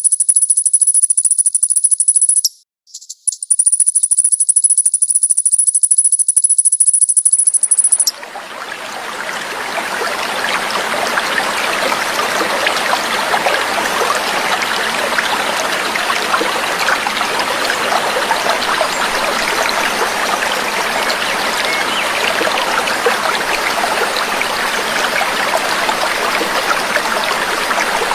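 A very high, shrill continuous trill that breaks off briefly about three seconds in and stops abruptly about eight seconds in. Trickling, babbling water then fades in over a couple of seconds and runs on steadily.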